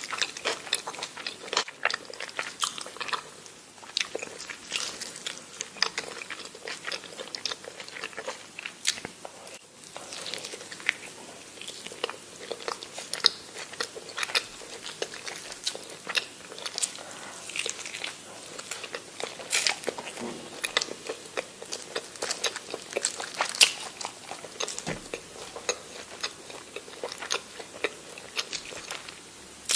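A person chewing and biting food, with many irregular crunches and mouth clicks and a few louder bites.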